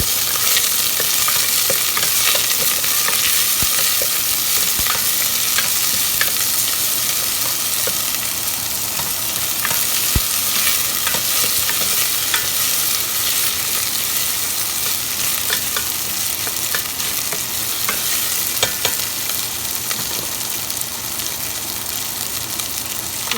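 Chopped onions sizzling steadily as they sauté in hot oil in a pan, stirred now and then, with scattered short clicks and scrapes of the utensil against the pan.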